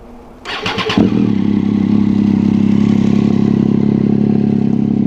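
2008 Triumph Street Triple's three-cylinder engine cranked by its electric starter for about half a second, catching about a second in and settling into a steady idle through an unbaffled Danmoto GP carbon-fibre slip-on exhaust.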